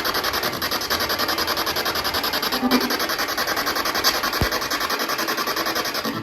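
A spirit box sweeping through radio frequencies through a portable speaker: a steady, rapid chopping of static, several pulses a second.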